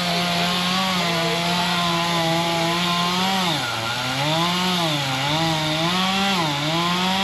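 Two-stroke chainsaw running at high speed, with its pitch repeatedly dipping and recovering from about halfway through as the engine loads up in the cut through the tree.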